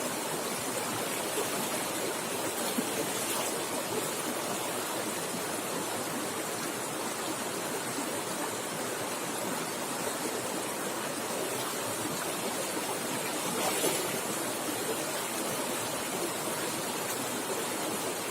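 River water flowing fast, a steady rushing noise with a slightly louder surge about 14 seconds in.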